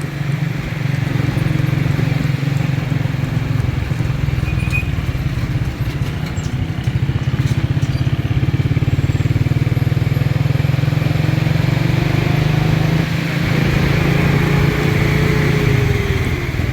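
Small motorcycle engine running steadily at speed with a fast, even pulse, easing off slightly near the end.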